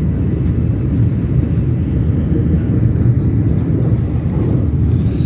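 Steady low rumble of a train running at speed, an even noise with most of its weight deep down and no distinct knocks or tones.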